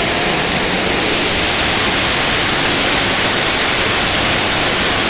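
Roar of a waterfall heard from right behind the falling water: a loud, steady rush of water.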